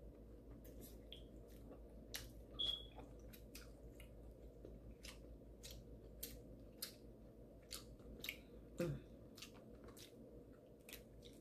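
A person chewing seafood-boil food close to the microphone: wet mouth clicks and lip smacks scattered through, with louder clusters about two seconds in and near nine seconds.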